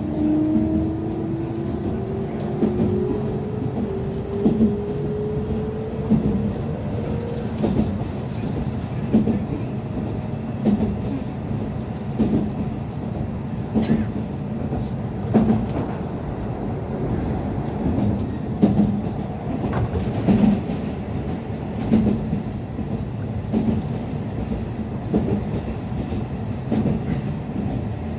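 Keikyu 600 series commuter train heard from inside the car. Its motor whine rises in pitch over the first several seconds as the train gathers speed. It then settles into steady running noise, with the wheels clacking over rail joints about every second and a half.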